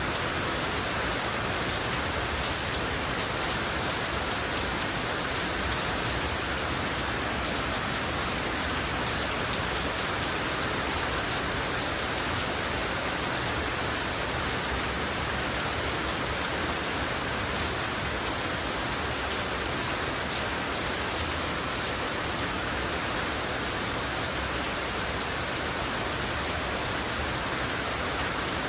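Heavy rain falling steadily: a dense, even hiss of drops hitting surfaces, without pauses or changes.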